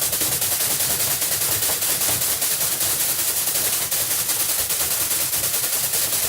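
A rapid, continuous rattle of sharp hits, many per second and evenly spaced, like a long machine-gun burst: a sound effect for a nonstop flurry of combo strikes.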